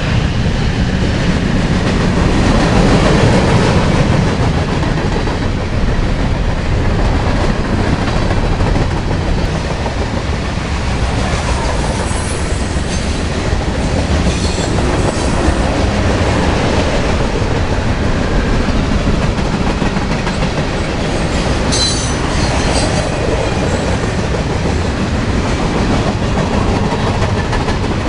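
HO scale model train with diesel locomotives running past, making a steady low rumble with wheels clicking over the rail joints.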